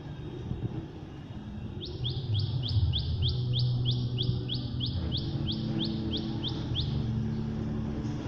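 A bird calling a fast string of about twenty short, high notes, each sweeping downward, about four a second. It starts about two seconds in and stops near the end, over a low, steady rumble.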